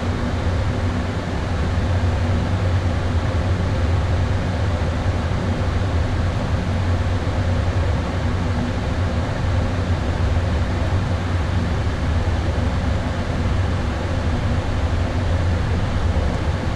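Steady flight-deck noise of an Airbus A320 in flight: an even rush of airflow and air-conditioning with a low hum underneath, unchanging throughout.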